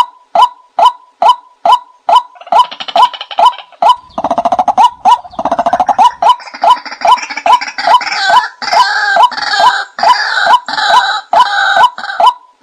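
Recorded bird call played as a lure for trapping: a short call repeated evenly about twice a second, with a second, busier bird chattering over it from about two seconds in until near the end.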